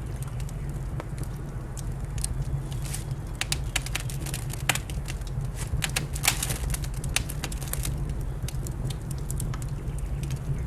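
Wood fire crackling in a fireplace: irregular sharp pops and snaps, busiest through the middle, over a steady low rumble.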